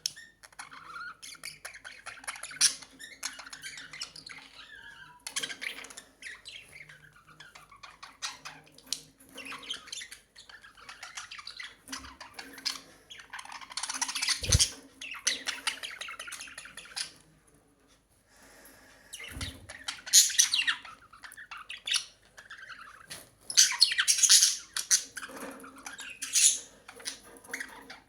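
Pet budgerigars chattering and chirping in quick, irregular warbles, with louder bursts a few times and a brief lull partway through.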